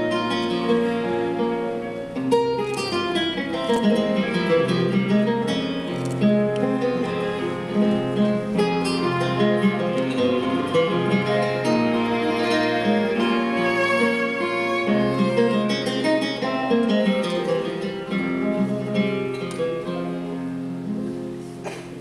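Instrumental introduction to a Russian romance played by a small chamber ensemble, with plucked guitar and violin. The level eases off in the last second or so.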